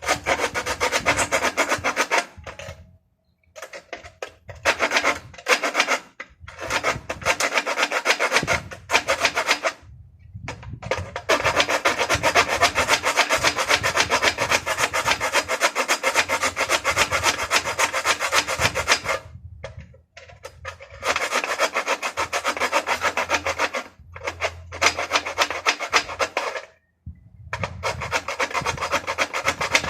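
A hand tool rasping through material with rapid back-and-forth strokes, in runs of a few seconds separated by short pauses; the longest run, about eight seconds, comes in the middle.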